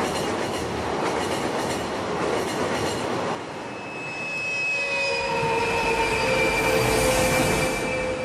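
Cartoon sound effect of a train running on the rails with a steady rumbling clatter; after about three seconds it drops away and several steady high tones are held, as a train's wheels squeal or its whistle sounds, over a rising hiss.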